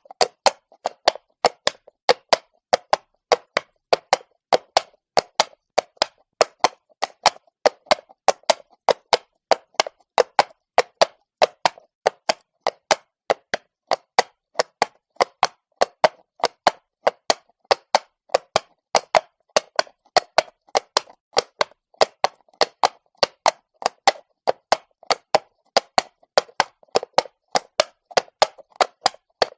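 Horse's shod hooves walking on cobblestones: a steady, even series of sharp clops, about three a second.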